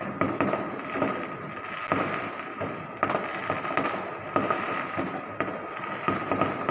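Fireworks display: irregular sharp bangs of bursting shells, one or two a second, over continuous crackling.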